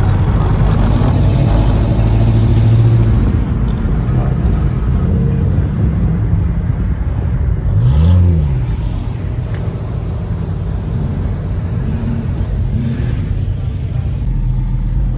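Car engine running with a low rumble, revved up once and back down about eight seconds in.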